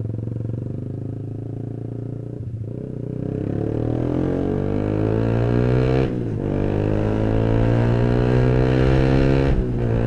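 Yamaha YZF-R15's single-cylinder engine through a custom racing exhaust, accelerating: the revs climb, drop at a gear change about six seconds in, climb again and drop at another shift near the end.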